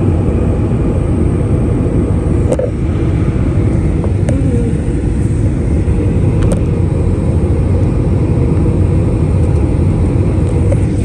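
Steady in-flight cabin noise of an Airbus A319 on descent: a dense rush of engine and airflow noise with a steady hum, and a few faint clicks.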